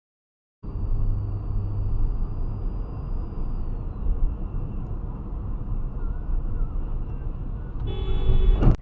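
Steady low road and engine rumble of a moving vehicle, as a dash camera records it, starting suddenly a little way in. A sudden loud bang comes near the end.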